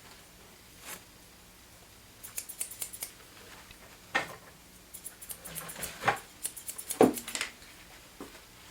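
Curved grooming shears being opened and closed in quick snips, in two runs of rapid metallic clicks, with three heavier knocks among them in the second half.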